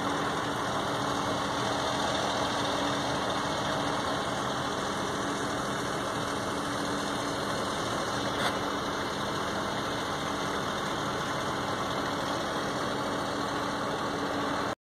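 An engine running steadily at idle, a constant hum with a low steady tone over noise, with one faint click about halfway through. It cuts off abruptly near the end.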